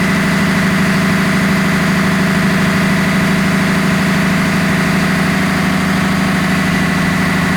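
Ship's engine-room machinery running steadily: a constant loud drone with a strong low hum and a steady high whine above it.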